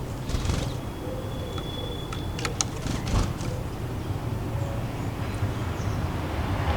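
Urban garden ambience: a steady low rumble of distant city traffic, with a thin high whistle held for about two seconds and a few short, sharp high-pitched ticks or chirps around the middle.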